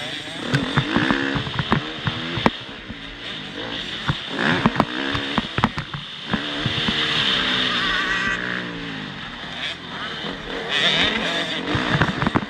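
Motocross bike engine revving hard, its pitch climbing and dropping repeatedly as it is worked through the throttle and gears, with frequent sharp knocks and clatter.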